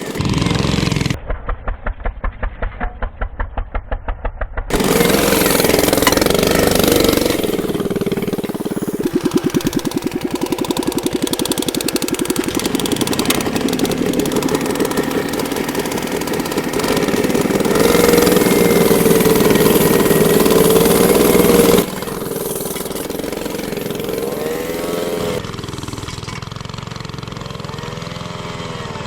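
Engines of a home-built three-engine all-wheel-drive motorcycle with sidecar running and revving, the pitch rising and falling. The sound changes abruptly several times, with a steady fast-pulsing stretch of engine running early on.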